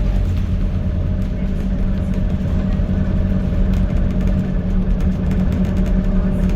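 A Scania N280UD double-decker bus heard from on board, its engine running steadily under way over the low rumble of the road.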